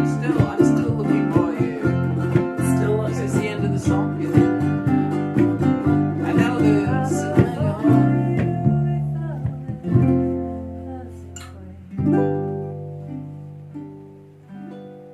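Guitar playing a bossa nova rhythm in C, then slowing into a few closing chords. The last chord is struck about twelve seconds in and left to ring and die away.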